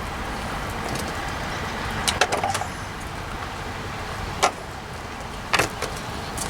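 A few sharp clicks and knocks of hard objects being handled, a cluster about two seconds in and single ones near the middle and the end, over a steady hiss.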